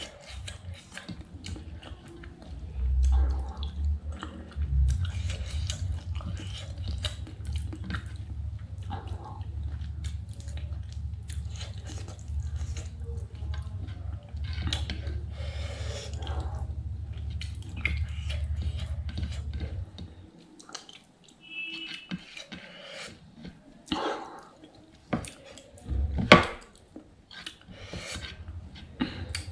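Close-miked chewing and wet mouth sounds of a person eating by hand, with fingers scraping food across a plate. A low steady hum runs under the first two-thirds and then stops.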